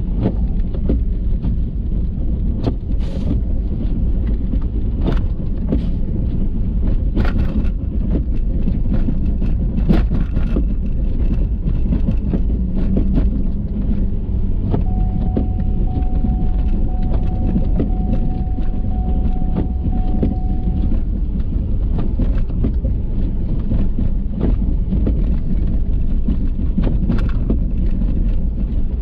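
Ford F-350 plow truck driving through deep snow: a steady low drone of engine and tyres, with scattered knocks and rattles throughout. A thin steady tone sounds for about six seconds in the middle.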